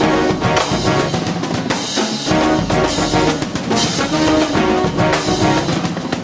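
Brass band music, with trumpets and trombones playing over a driving drum beat.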